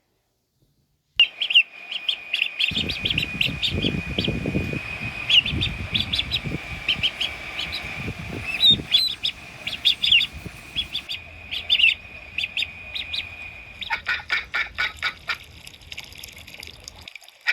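Ducks calling: short, high chirping calls over a steady high-pitched tone, then, from about fourteen seconds in, a rapid run of quacks, several a second.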